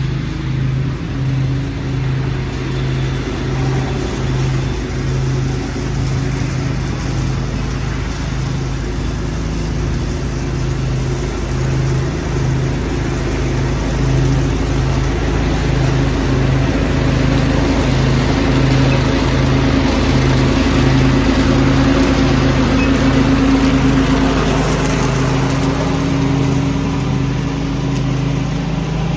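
Small gasoline engine of a lawn-tractor leaf-vacuuming rig running steadily under load. It grows a little louder through the middle, then eases back near the end.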